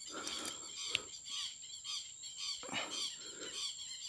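Several birds calling with short, repeated chirps, and a single sharp click about a second in.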